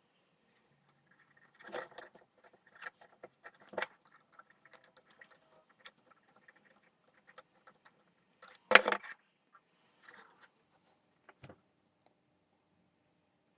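Irregular clicks and light rattles of small hard parts being handled, with one louder clatter about nine seconds in.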